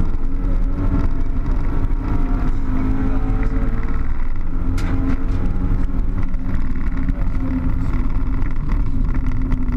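Car engine running hard, heard from inside the cabin with tyre and road noise, its pitch rising over the first few seconds as it accelerates. A sharp click about five seconds in.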